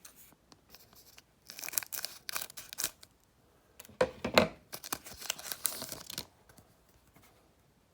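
Foil wrapper of a football trading-card pack being torn open and crinkled, in two bouts of rips and rustling, the second and louder about four seconds in.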